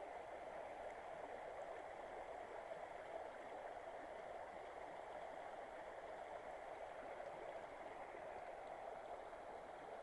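Shallow mountain river running over rocks: a steady, even rushing of water.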